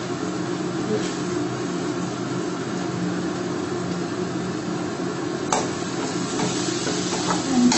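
Onion-tomato masala frying in oil in a kadhai over a steady low hum. A metal spatula clinks against the pan about five and a half seconds in and again near the end.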